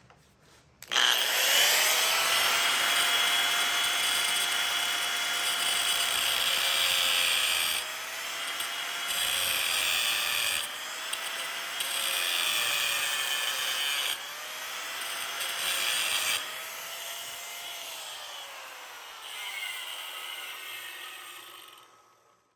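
Angle grinder spinning up and cutting into metal, its motor whine dipping in pitch each time the disc bites under load and recovering between passes, then winding down with falling pitch near the end.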